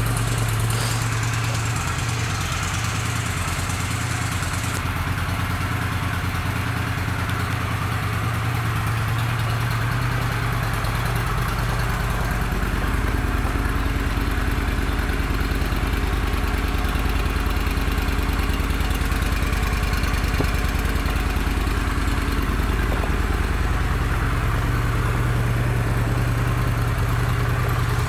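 2009 Honda Shadow Spirit 750 (VT750C2) with its liquid-cooled V-twin idling steadily on its stock exhaust, just after being started. The idle note shifts slightly about twelve seconds in.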